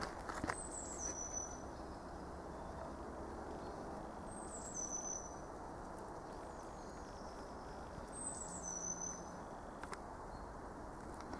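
A small songbird repeating a short high-pitched call of two notes stepping down in pitch, three times about four seconds apart, over a steady outdoor hiss.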